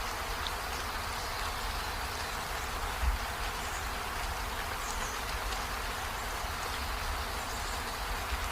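Steady rain hiss with a low rumble underneath, and one brief low thump about three seconds in.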